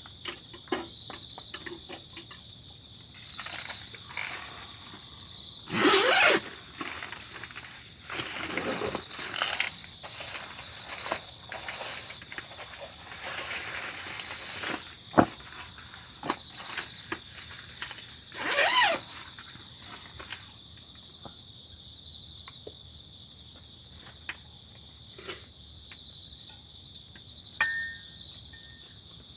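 Insects chirping steadily in a continuous pulsing chorus. Several louder rustling or handling noises come and go over it, the loudest about six and nineteen seconds in, with a single sharp click near fifteen seconds.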